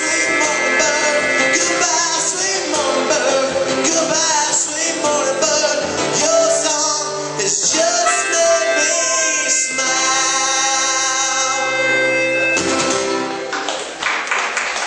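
Closing bars of a live acoustic song: guitar with harmonica and voice over it, holding long notes and stopping near the end.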